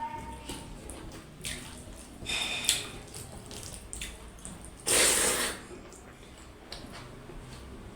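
Wet eating sounds close to the microphone: soft chewing and clicks, with a loud slurp-like rush of noise about five seconds in.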